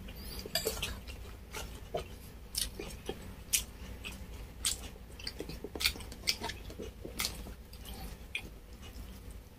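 A person chewing food with open-mouth smacks and wet mouth sounds, as irregular sharp clicks. Light taps of a spoon and fork against a plastic food container are mixed in.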